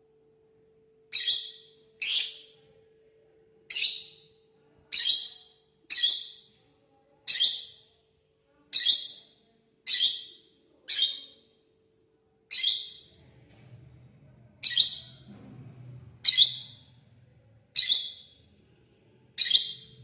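Parrot giving a short, sharp, high-pitched call over and over, about fourteen times, roughly one every second or so, each call cut off quickly.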